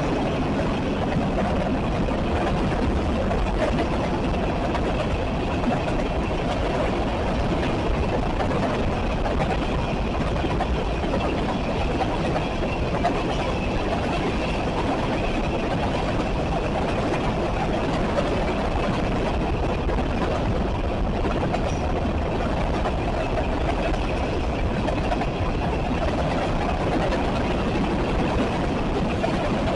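Local train passing with a steady rumble of engine and rolling cars.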